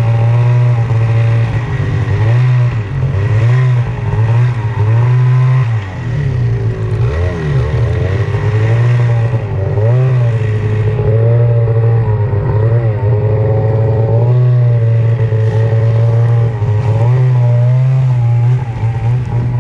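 Snowmobile engine running close by, its pitch rising and falling again and again as the throttle is worked.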